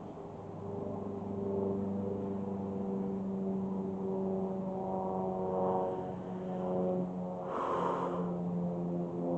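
A steady engine drone with a held, slightly shifting pitch, like a motor vehicle running, and a short rushing noise just under eight seconds in.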